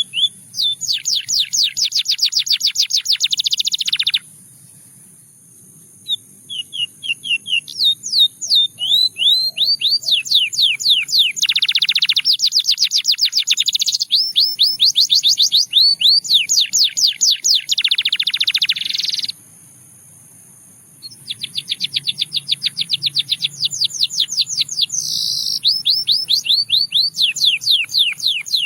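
Russian singing canary singing long, fast trills of evenly repeated high notes, the tours changing pace and pitch, broken twice by pauses of about two seconds.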